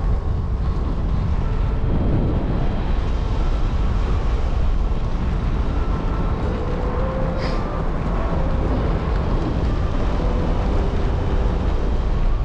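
Steady rushing wind buffeting the microphone in flight, a continuous low rumble with no breaks.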